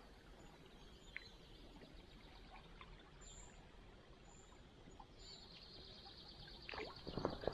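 Faint running water of a small stream with a few soft, distant bird chirps; about five seconds in a thin, high, steady trill begins, and near the end a short run of splashes and knocks.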